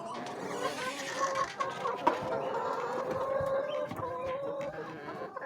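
A flock of chickens clucking together in a steady, overlapping chorus.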